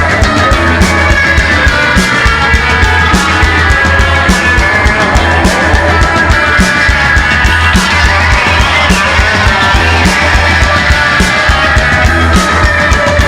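Rock band playing: electric guitar, bass and drums, with drum hits keeping a steady beat.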